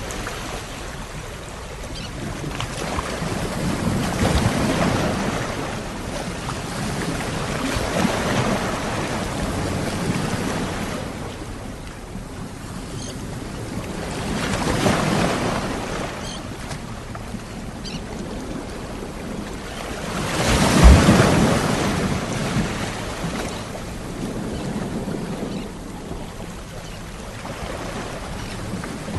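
Sea waves breaking and washing onto a shore, the surf swelling and fading in uneven surges every few seconds. The loudest wave breaks about twenty seconds in.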